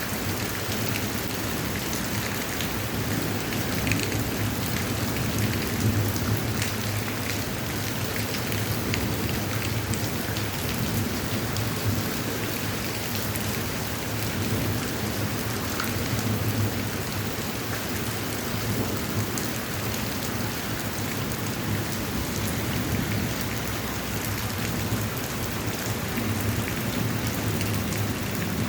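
Heavy rain falling steadily in a downpour, with fine drop ticks throughout and a low rumble underneath that swells and eases every few seconds.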